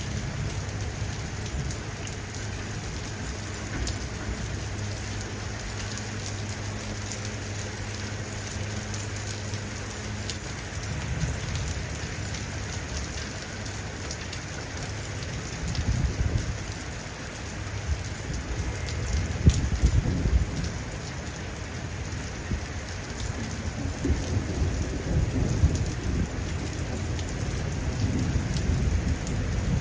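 Steady rain falling, with thunder rumbling in low rolling swells from about halfway through, the strongest a few seconds later and more building near the end. A steady low hum sits under the rain for the first third and then stops.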